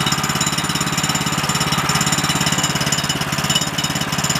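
The gasoline engine of a Woodland Mills HM130 Max portable sawmill running steadily, with a fast, even firing pulse.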